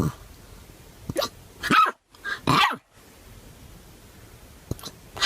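Dog barking: three short barks, each falling in pitch, in the first half.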